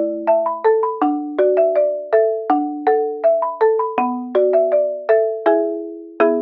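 Background music: a light melody of struck, ringing notes like a marimba or glockenspiel, about three notes a second, each note fading after it is struck.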